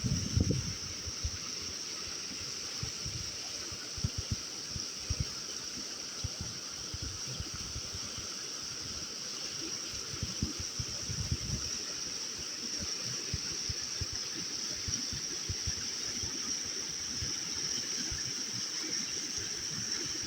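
Water running steadily in a stream, with an even rushing hiss and frequent short low rumbles.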